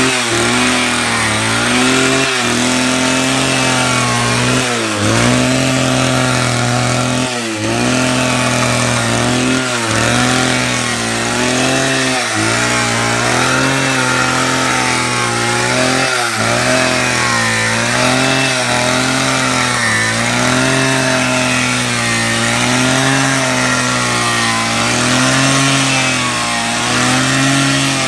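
Electric drill motor running continuously under load to turn a coffee-cherry dryer. Its hum sags in pitch and recovers regularly, about every two and a half seconds.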